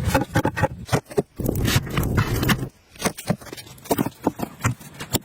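Irregular knocks and clicks, with a stretch of scraping from about one and a half to two and a half seconds in.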